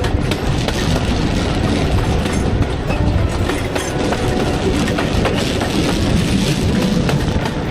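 Passenger carriage of a steam-hauled heritage train running along the line: a steady rumble with many sharp clicks from the wheels over the rails.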